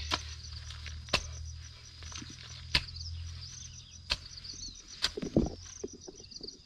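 A hand tool chopping with sharp, separate blows, five in all, about one to one and a half seconds apart. Crickets chirr steadily underneath.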